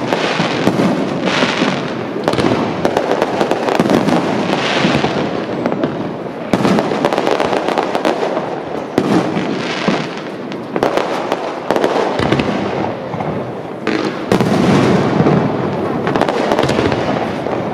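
Fireworks display: many overlapping shell bursts and crackles in a near-continuous barrage.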